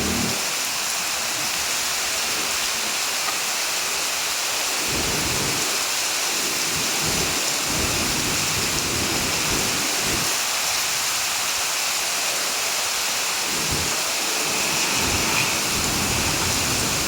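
Heavy rain falling in a steady hiss, with low rumbles that come and go through the middle.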